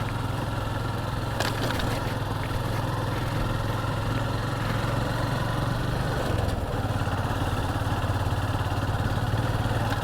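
Motorcycle engine running steadily at low speed on the ride, with a brief knock about a second and a half in.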